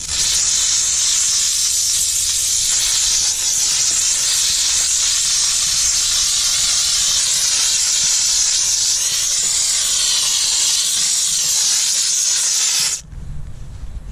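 Dupray Neat canister steam cleaner jetting a steady, loud hiss of steam from its nozzle, wavering a little in tone, which cuts off suddenly near the end as the trigger is released.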